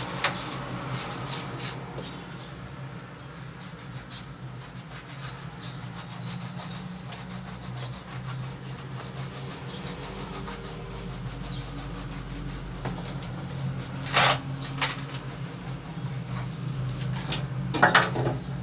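Rubbing and scraping with scattered small clicks, over a steady low hum, with two louder knocks, one about two-thirds of the way in and one near the end.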